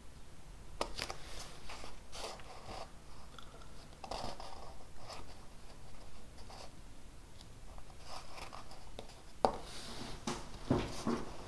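Pen writing on paper in irregular bursts of short scratchy strokes, with a sharper tap about nine and a half seconds in.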